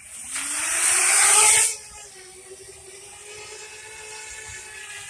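Parrot Bebop 2 quadcopter taking off: its motors spin up with a rising whine and a loud rush of propeller air, then settle into a steady hum as it flies.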